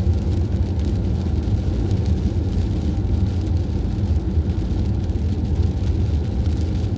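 Steady low rumble of a vehicle on the move along a highway, engine and road noise running evenly without change.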